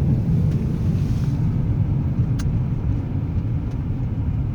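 Steady low rumble of a car's engine and tyres heard from inside the cabin while driving on a snow-covered highway, with a single sharp click about halfway through.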